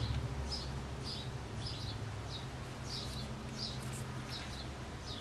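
A small bird chirping over and over, a short high chirp about every half second, over a steady low background hum.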